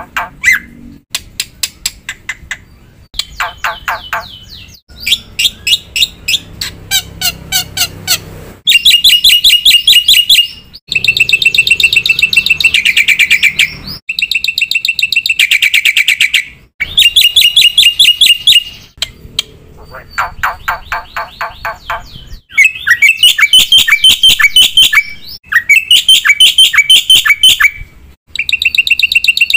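Black-winged myna (jalak putih) singing loudly in phrases of a few seconds each: fast strings of repeated chattering notes and trills, with the phrases changing from one to the next.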